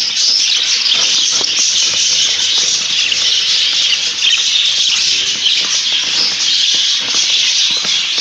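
A flock of budgerigars chattering together, a dense steady mass of high warbling and chirping calls.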